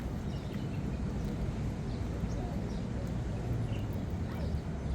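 Outdoor park ambience: a steady low rumble with faint, scattered short bird chirps.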